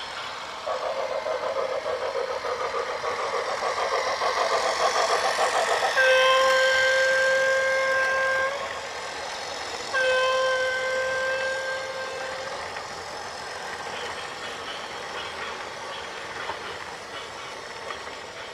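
A fast-pulsing mechanical rumble grows louder, then a vehicle horn sounds two long, steady blasts a little over a second apart. A quieter steady noise follows.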